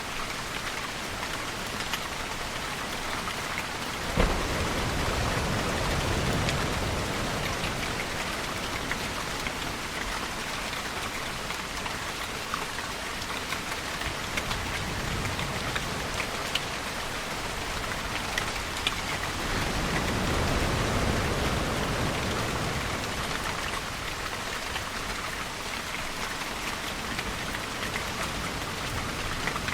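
Steady rainfall with a continuous patter. About four seconds in, a sudden low rumble of thunder swells and fades over a few seconds. A second, gentler low swell comes around twenty seconds in.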